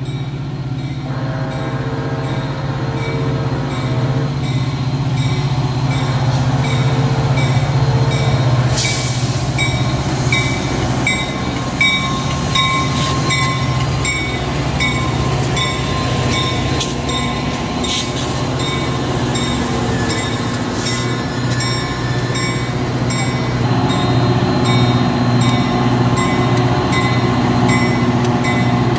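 Metra diesel locomotive and its double-deck commuter cars running past close by, the engine a steady low rumble over rolling wheels and rail noise. A bell rings at an even pace throughout.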